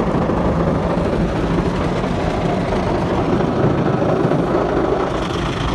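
Rotating brushes of a WashTec Soft Care 2 Pro automatic car wash scrubbing over the car during the brush cycle, a steady loud rushing noise with a low hum, heard from inside the car.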